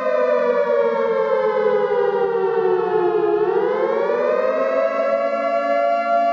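A siren sounding with several tones together: it holds a steady pitch, slides slowly down for about three seconds, then rises back up to its steady pitch.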